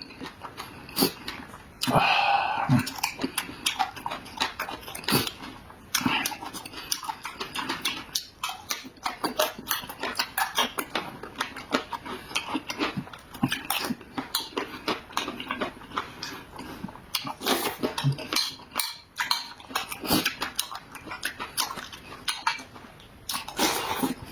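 Close-miked eating: wet chewing and smacking of food with many irregular sharp clicks, and occasional clinks of utensils against a dish.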